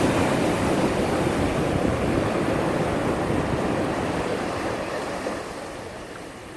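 Ocean surf breaking on the beach, a wave's rush loudest at the start and dying away toward the end.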